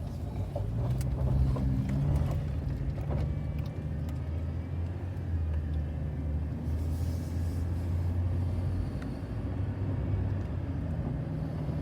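Car engine and road noise heard from inside the moving car: a steady low drone whose pitch shifts a little as the car drives on.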